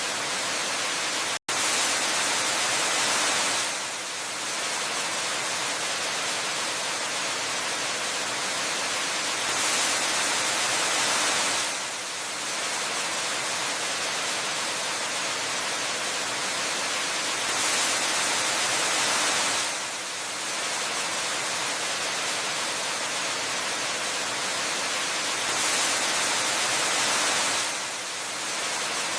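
Waterfall: a steady rush of falling water, even like white noise. It swells slightly every eight seconds or so for about two seconds, and cuts out for a split second about a second and a half in.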